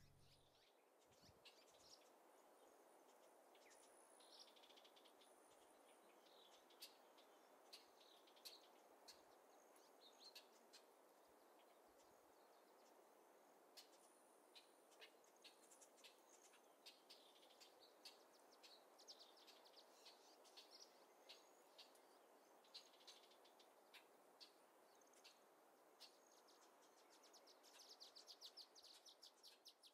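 Faint small birds chirping and twittering over a low, steady background hiss, the chirps busier near the end.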